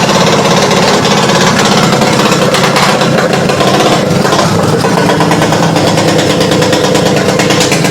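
Freshly built 250cc engine running on its first start, with a loud, rapid, even firing rattle.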